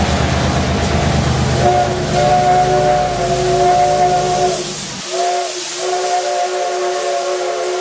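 Locomotive whistle sounding a multi-note chord as the train departs: a long blast starting about two seconds in, a short break, then a second blast that sags in pitch as it opens and holds. Underneath, a low rhythmic locomotive engine rumble drops away about five seconds in.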